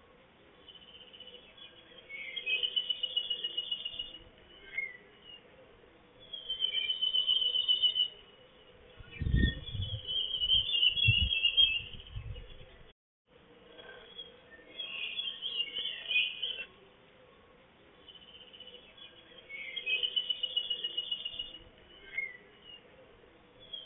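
A songbird singing, repeating a short high trilled phrase every few seconds, with brief low rumbles around the middle.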